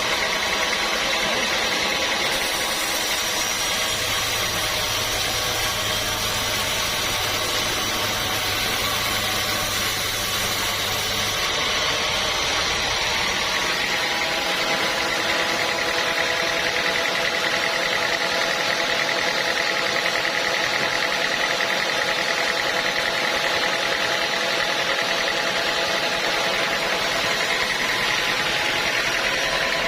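Sawmill machinery running steadily with a constant mechanical hum; its tone shifts about halfway through.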